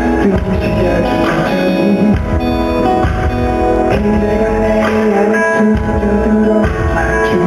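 Live concert music over an arena sound system: strummed guitar chords over bass, changing about once a second, with no clear singing.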